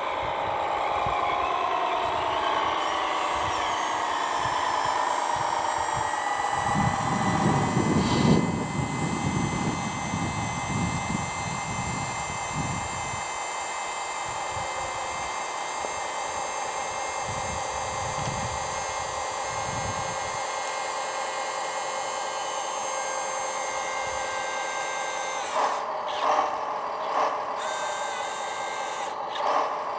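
Electric drive motor and gearbox of a scale RC logging truck (a rebuilt cordless-screwdriver drive unit) whining steadily like a small power drill as it drives, with a low rumble for several seconds a third of the way in and several short bursts near the end.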